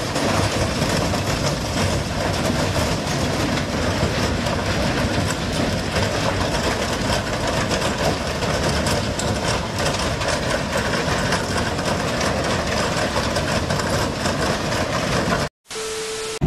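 Freight train autorack cars rolling past close by, a steady loud rumble and rattle of wheels and car bodies on the track. Near the end the sound cuts out abruptly and a short steady beep with static plays.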